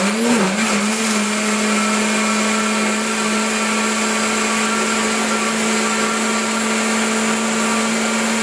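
3 hp OMNI blender motor running, blending avocado, tomato, garlic and sauerkraut juice into a thick dressing. Its pitch wavers at first as the contents catch, then settles about a second in to a steady, even hum.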